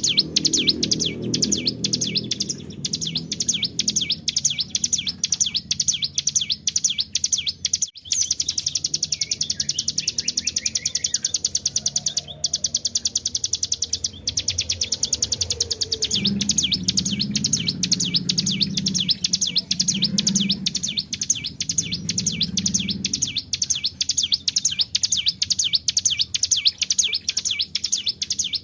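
Hill prinia (ciblek gunung) singing a long, fast, unbroken rattling trill of rapidly repeated high notes, the 'ngebren' song. It breaks off only briefly twice. A softer low sound runs underneath near the start and again in the middle.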